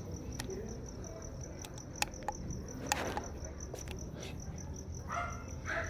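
A cricket chirping steadily at one high pitch, about three chirps a second, over a low background rumble. A few sharp clicks stand out, the loudest about three seconds in.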